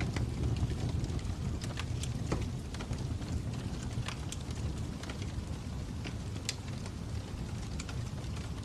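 Fire crackling: a steady low rumble of flames with irregular sharp pops and snaps, one louder pop about six and a half seconds in.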